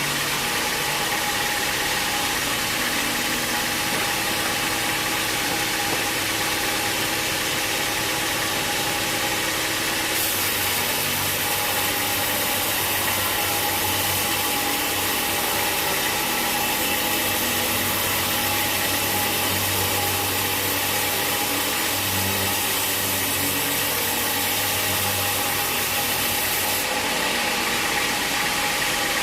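Sawmill machinery running steadily: an engine-like drone with a constant whine over dense hiss. The sound changes abruptly about ten seconds in and again near the end.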